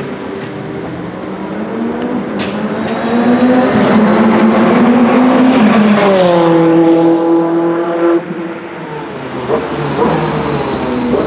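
Bentley Speed 8's twin-turbo V8 race engine passing at speed: the note climbs as it approaches, drops sharply in pitch as it goes by about six seconds in, then falls away suddenly about two seconds later. Another engine note starts rising near the end.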